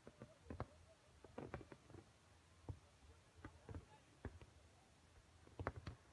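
Faint, irregular short pops and clicks, one or two a second, over a low background rumble.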